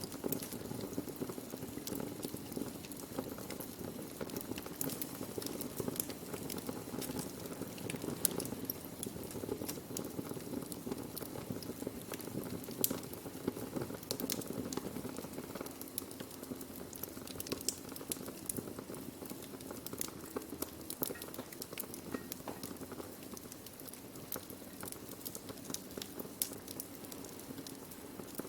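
Wood fire burning and crackling: irregular sharp pops and snaps over a steady low rush of flame.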